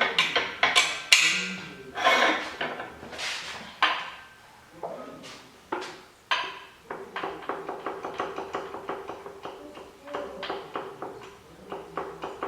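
Metal tools and engine parts clinking and knocking against each other, with sharp ringing strikes in the first few seconds, then a quick, even run of small metallic ticks.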